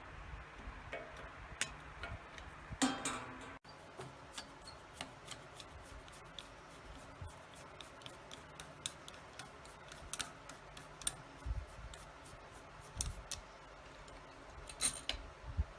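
Many small irregular metallic clicks and ticks from working the screw out of an electric fan's blade hub, with a couple of louder clattering bursts about three seconds in and near the end.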